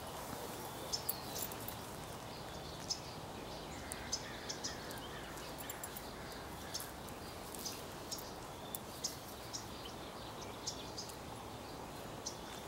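Outdoor ambience: small birds chirping in short, scattered high calls over a steady background noise.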